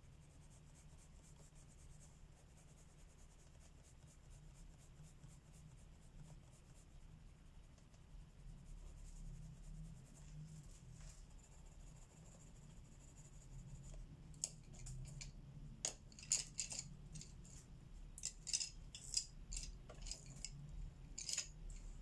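Colour pencil scratching softly on paper, then, from about two-thirds of the way in, a run of light, sharp clicks and clinks of pencils being handled.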